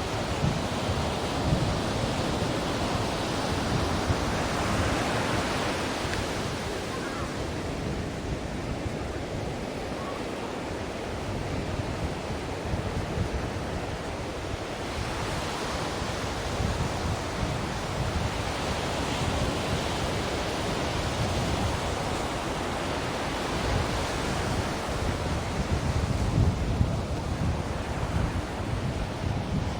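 Ocean surf: a steady rush of waves that swells and eases every five to ten seconds as the waves break.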